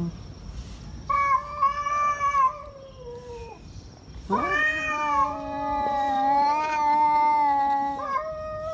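Tomcats yowling at each other in a fight standoff: a long drawn-out yowl that sinks in pitch at its end, a short pause, then a longer yowl of about four seconds that rises at the start and holds, with a brief falling wail near the end.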